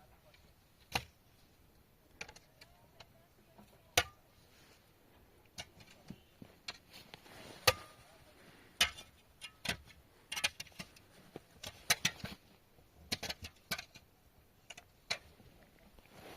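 Irregular sharp clicks and knocks, scattered unevenly and thicker in the second half, like hard objects being handled and set down.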